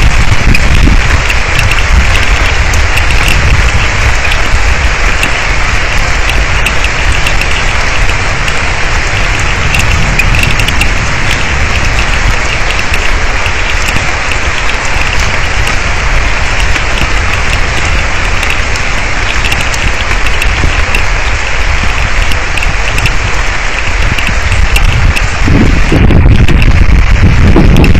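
Heavy thunderstorm rain pouring steadily onto an outdoor camera and the ground around it, loud and dense, growing a little louder near the end.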